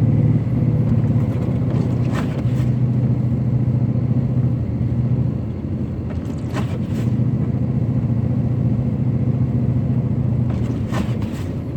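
Pickup truck's engine running steadily in four-wheel drive with a load on, a low drone throughout. Short knocks come in pairs about every four seconds.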